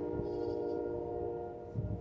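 Goat bleating, one drawn-out bleat that fades away about a second and a half in.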